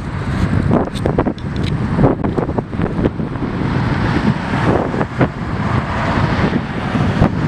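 Wind buffeting the microphone in irregular gusts over a steady low rumble of engine noise.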